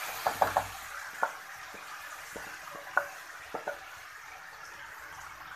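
Marinated chicken being tipped into hot masala in a metal pot, with a steady sizzle. A wooden spoon knocks and scrapes against the pot about eight times while stirring, loudest about half a second in and again at three seconds.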